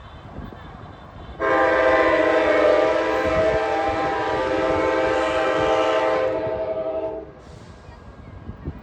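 Train horn sounding one long blast of nearly six seconds, starting abruptly and cutting off, over low rumble.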